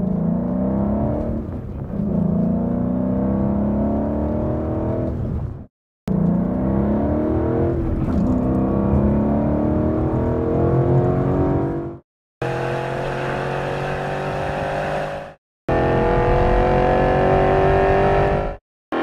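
A 2011 Ford Mustang GT's 5.0-litre V8 running through a Borla aftermarket exhaust, accelerating hard. The engine note climbs in pitch and drops at each upshift. It comes as four separate runs, each cut off suddenly.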